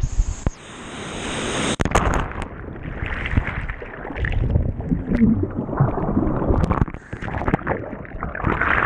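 Seawater sloshing and gurgling in uneven surges against a GoPro held in the surf. The sound turns muffled within the first two seconds as the camera goes into the water.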